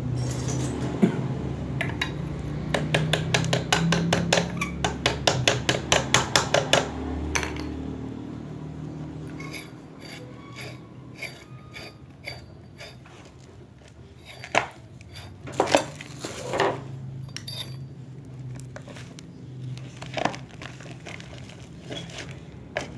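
Metal water pump parts being tapped and handled during assembly: a quick run of sharp metallic taps for several seconds, then a few scattered knocks and clinks.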